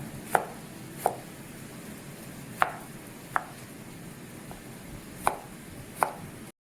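Knife chopping a tomato into small pieces: six sharp knocks of the blade, spaced unevenly.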